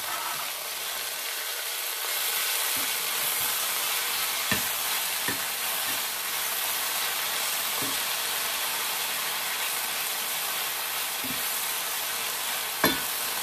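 Sweet potato leaves and garlic sizzling in hot olive oil in a frying pan. A steady sizzle, with a few light knocks; the sharpest comes near the end.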